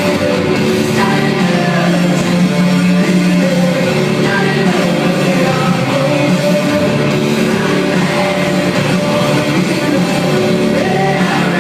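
Live rock band playing loudly, with sung vocals over the instruments.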